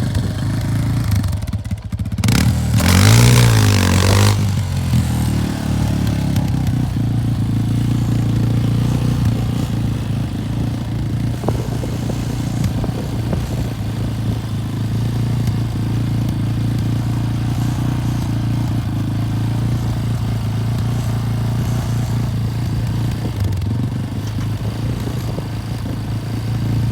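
Yamaha's engine running steadily, revved hard once about three seconds in, then settling back as it pulls on the Polaris engine.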